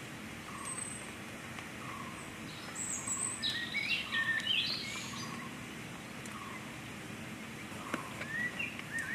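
Wild birds chirping and singing over a steady outdoor background hiss, with a cluster of quick chirps about three to five seconds in and more near the end.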